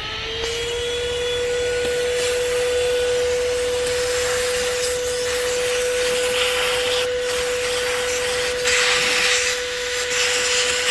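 Corded car vacuum cleaner's motor spinning up as it is switched on, then running with a steady whine over a rushing suction hiss. The hiss swells and brightens a few times, most strongly about nine seconds in, as the nozzle works at dirt in a tight gap.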